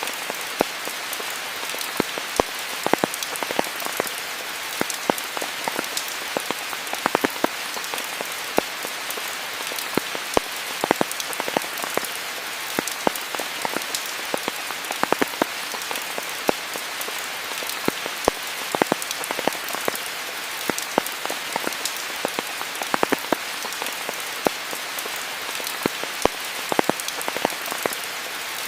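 Steady rain falling, an even hiss with many close, sharp drips and drop splats landing all through it.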